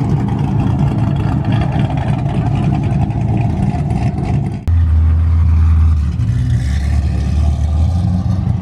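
Loud vehicle engines and exhausts running. About halfway through, the sound changes abruptly to a deep, steady engine drone.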